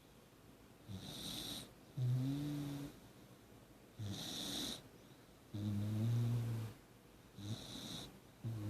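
A Beagle–Jack Russell mix dog snoring lightly in its sleep. Each breath is a short breathy hiss followed by a louder low-pitched snore, repeating about every three seconds, three times.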